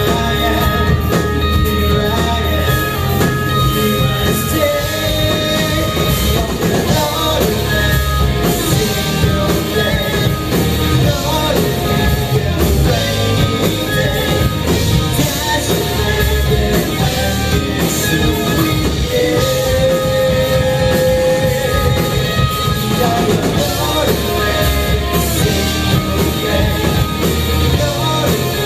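Live rock band playing at full volume, with drum kit, electric guitar and singing, and one long held note near the end.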